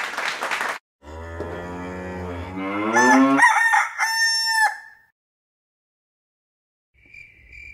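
A rooster crows once, a long call rising in pitch and ending on high held notes, after a short burst of noise at the start. A couple of seconds of silence follow, and near the end crickets start chirping in a steady pulse.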